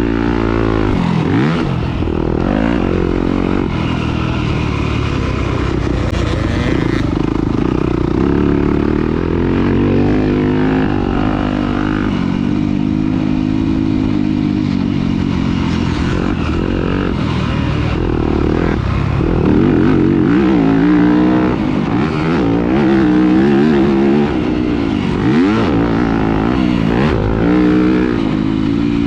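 Off-road motorcycle engine running hard, its pitch repeatedly rising and dropping as the throttle is opened and closed and the gears change.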